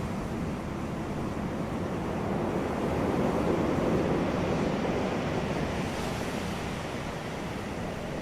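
Sea waves breaking on a beach: a steady wash of surf that swells to a peak about halfway through and then eases back.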